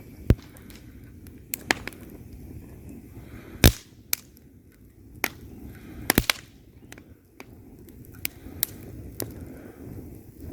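Wood fire crackling in a fireplace: sharp, irregular pops and snaps of burning logs over a low, steady rumble of the flames, with the loudest pops about a third of a second in, near the middle, and a quick double pop a little after.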